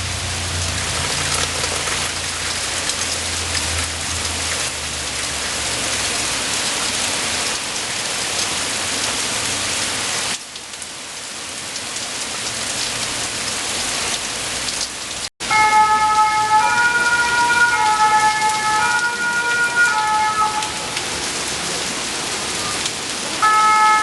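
Steady rain falling, with a vehicle engine's low hum under it for the first few seconds. After a brief dropout about two-thirds of the way through, a louder emergency-vehicle siren steps back and forth between notes over the rain. It pauses, then starts again near the end.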